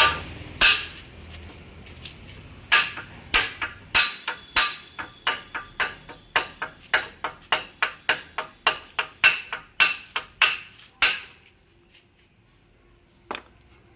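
Hammer blows ringing on metal during a hand pump repair: a long run of sharp strikes, about two a second, that stops about eleven seconds in, followed by one more blow near the end.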